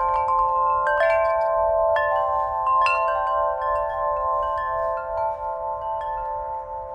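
Many small wind chimes hung together in an oak tree, ringing: several are struck in quick clusters over the first three seconds, then their overlapping tones ring on and slowly fade.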